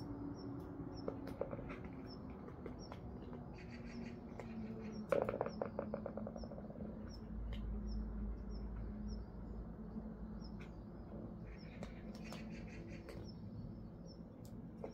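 A bird's short, high chirp repeating steadily about one and a half times a second, over soft clicking and crunching from cats eating out of a bowl, loudest about five seconds in.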